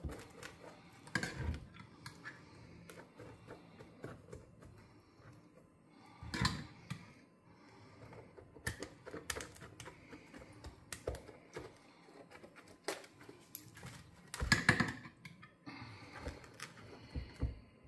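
Crisp crust of a round Maltese loaf crackling and clicking irregularly as the crumb is pulled out by hand and cut with a knife, with a few louder short knocks and scrapes.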